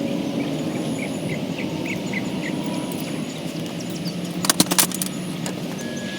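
Steady background hum with a cluster of four or five sharp knocks a little past four seconds in, as the failed ball bearing's outer race is worked out of the mower's blade spindle housing.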